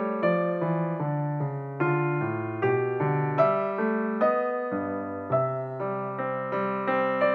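Background piano music: a steady run of notes and chords, each struck and then fading.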